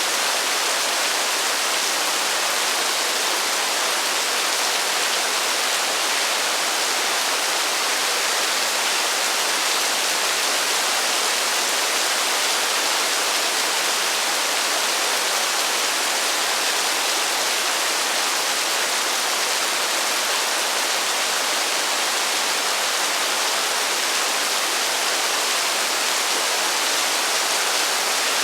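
Heavy rain falling as a steady, even hiss, with no single drops standing out and no thunder.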